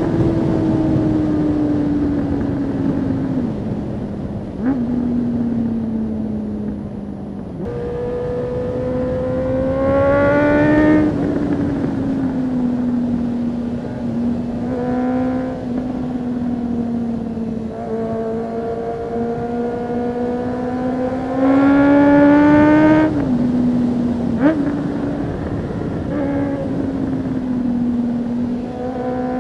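Honda CB400 Super Four's 399cc inline-four running loud through a baffle-less IXIL slip-on exhaust, its revs climbing and falling as the bike is ridden through the gears. Two sharp pops come as it comes off the throttle, the small backfire of an engine running a little lean with no baffle.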